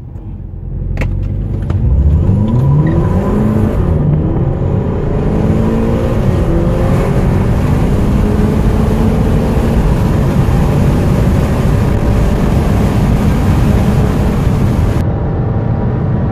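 Turbocharged VW four-cylinder petrol engine accelerating hard from a standstill, heard from inside the cabin. The engine note climbs in pitch, drops back at a gear change and climbs again more slowly.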